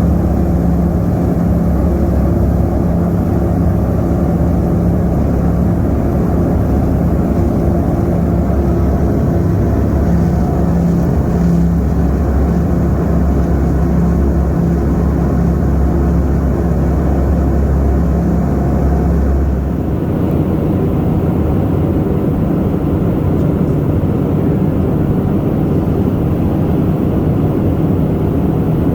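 Small propeller airplane's engines and propellers droning steadily, with a steady hum over a deep rumble. The sound changes about twenty seconds in, when the deep rumble drops away.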